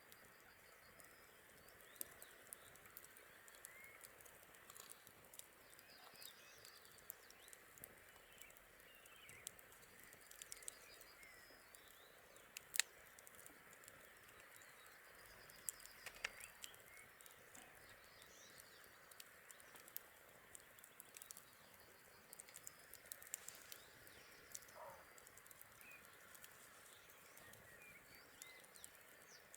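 Campfire crackling: irregular sharp pops and snaps, one louder pop a little under halfway through, over a faint steady hiss, with faint bird chirps.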